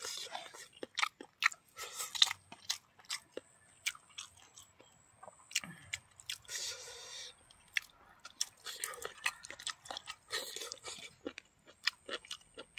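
Close-up mouth sounds of a person chewing food with many short wet clicks, along with fingers squishing and mixing food in a bowl.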